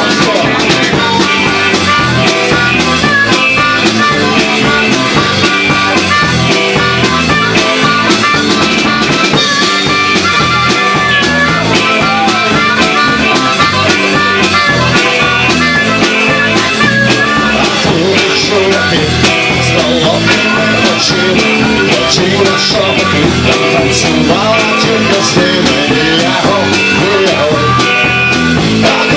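Live rockabilly band playing an instrumental passage with a steady driving beat and a wavering lead melody over it.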